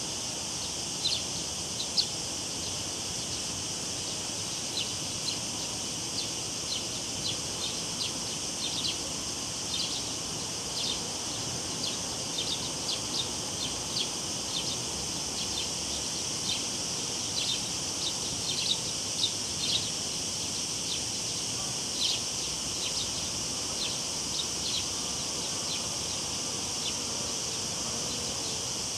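Cicadas singing in a steady high buzz, with many short high chirps scattered irregularly through it, over a soft low rush of river water.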